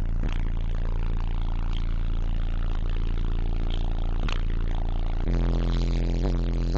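Bass-heavy music played very loud through a wall of 15-inch Digital Designs 500-series subwoofers, with deep, sustained bass notes that shift to a lower, heavier note about five seconds in. Sharp clicks and rattles from the vehicle's panels are shaken loose by the bass.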